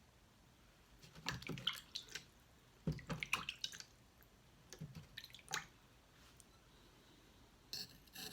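Faint wet taps and drips at a water-soaked whetstone, in three short clusters. Near the end a knife blade starts scraping across the wet stone.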